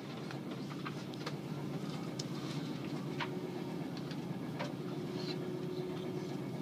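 Inside a moving passenger train: the steady rumble of the carriage running along the track, with a faint steady hum and occasional sharp clicks.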